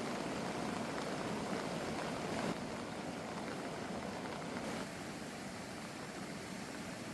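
Seasonal stream rushing steadily. The sound shifts abruptly about two and a half seconds in and again near five seconds, each time becoming a little quieter.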